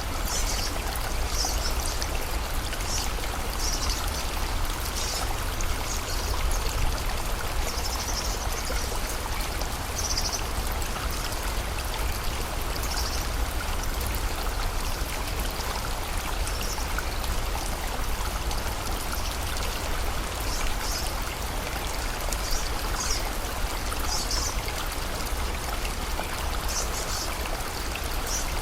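Steady rushing of a river or stream, with short high chirps of birds scattered irregularly over it.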